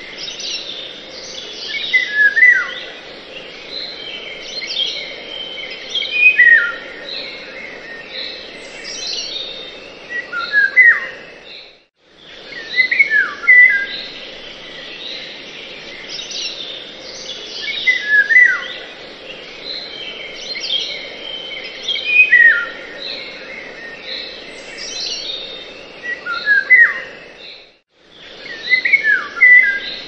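Birds chirping and calling without pause, with a sharp falling call every few seconds over a steady background hiss. The same stretch of birdsong repeats as a loop, cutting out abruptly twice.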